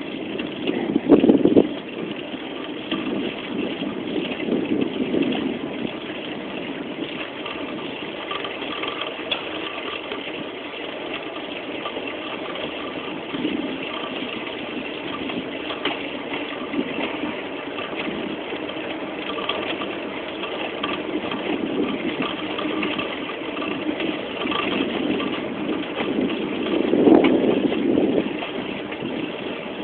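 Steady wind and rolling noise on the microphone during a bicycle ride, swelling louder about a second in and again near the end.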